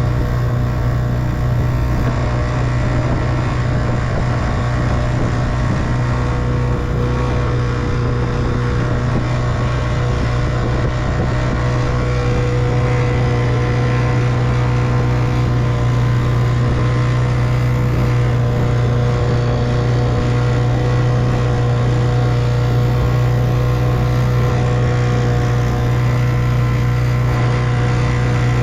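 1958 Evinrude 3 hp two-stroke outboard motor running steadily at a constant speed, pushing a small boat.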